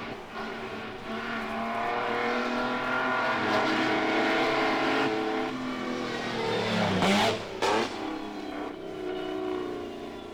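Supercharged V12 engine of the 3-litre Mercedes-Benz W154 Grand Prix car accelerating hard, its pitch climbing through the gears as it approaches. About seven seconds in it passes close by with a sudden drop in pitch, then the engine note falls away into the distance.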